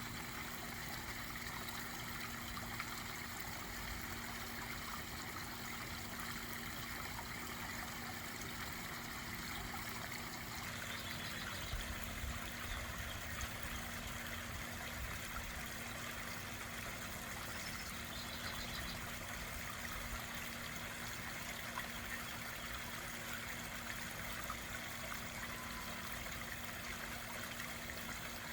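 Garden pond waterfall: water trickling and splashing steadily.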